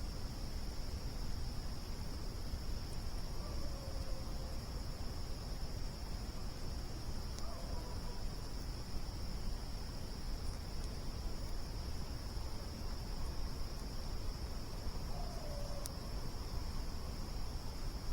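Crickets chirring steadily in one high, unbroken band over a low rumbling noise, with a few faint sharp pops from the campfire and several faint short calls.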